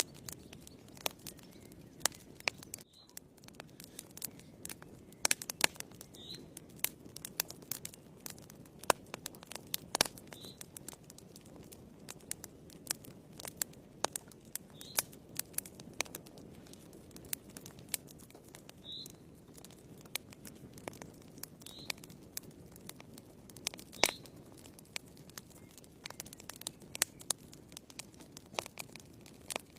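Wood fire burning in a fireplace: irregular sharp crackles and pops of the burning logs over a low steady rumble of flame, with a few short high-pitched squeaks.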